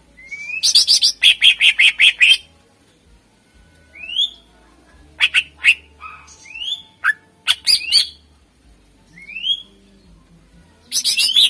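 Greater green leafbird (cucak ijo) singing loudly in bursts: rising whistled notes and quick runs of sharp, rattling chips. There is a long run near the start, scattered notes and whistles in the middle, and another fast run at the end.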